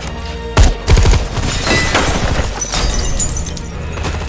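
Two heavy crashes about half a second in, followed by glass shattering and debris clattering for a couple of seconds, with music underneath.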